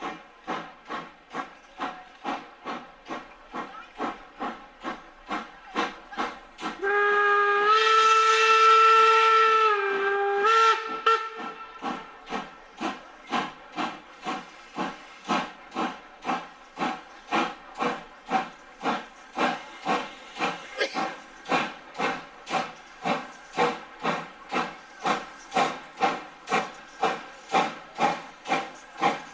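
Steam locomotive working slowly, its exhaust chuffing steadily at about two beats a second. About seven seconds in, its steam whistle sounds one loud blast of about three and a half seconds, dipping briefly in pitch just before it stops.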